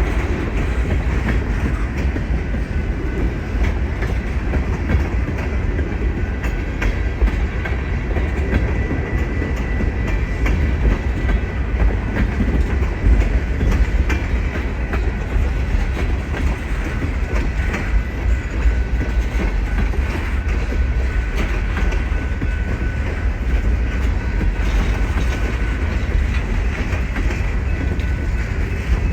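Railroad cars rolling steadily past on the track, with a low rumble and wheels clacking over the rail joints.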